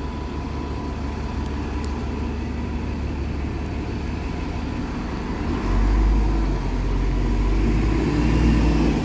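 Bus engine running close by, getting louder about five and a half seconds in as the bus pulls away past.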